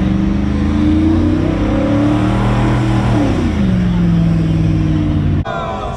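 A car engine revving loudly, its pitch climbing and then dropping back about three seconds in. Near the end the engine cuts off abruptly and voices take over.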